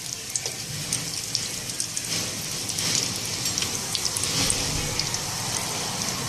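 Breaded egg-and-potato cutlets shallow-frying in hot ghee in a metal kadhai: a steady sizzle with many fine crackles and pops.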